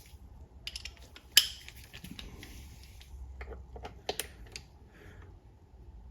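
Click-type torque wrench and socket working small bolts at a low 10 ft-lb setting: a scatter of sharp metal clicks and ticks, the loudest about a second and a half in, with another run of clicks past the middle.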